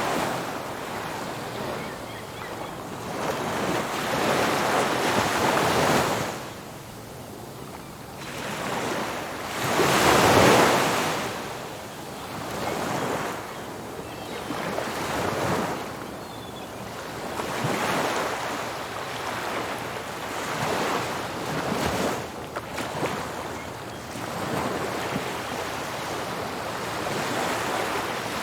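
Ocean surf breaking on a beach, wave after wave rising and washing back every few seconds, with the biggest break about ten seconds in.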